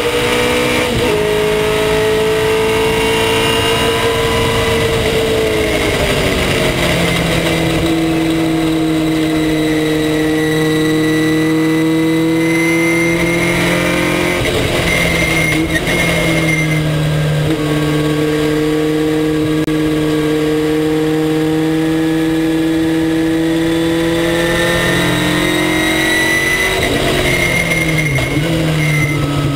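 Race car engine running hard through a practice lap. The pitch holds or climbs slowly, then changes in steps several times as gears are shifted.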